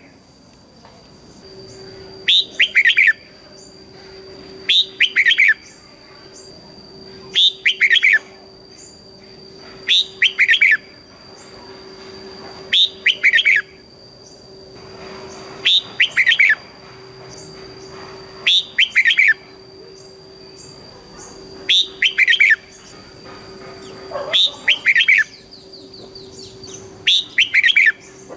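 Red-whiskered bulbul singing: a short, loud, rapid whistled phrase about every two and a half to three seconds, about ten in all.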